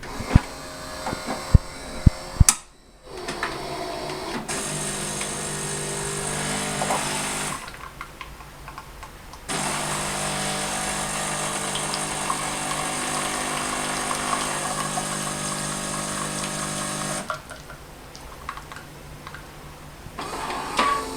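Gaggia Titanium bean-to-cup espresso machine at work. A few sharp clicks are followed by a steady motor hum with a high hiss for about four seconds. After a short pause a longer steady run of about seven seconds follows, then it drops to a quieter hum near the end.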